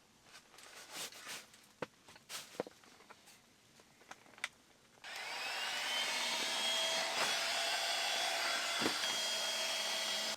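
Faint scattered clicks and knocks. About five seconds in, a small electric motor-driven blower starts with a short rising whine and then runs steadily with a whirring hiss.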